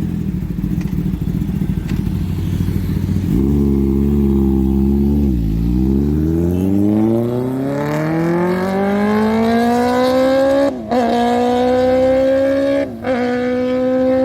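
Motorcycle engine revving: a rough low rumble, then a steady engine note that dips and climbs in a long rising pitch, broken twice by brief cuts near the end.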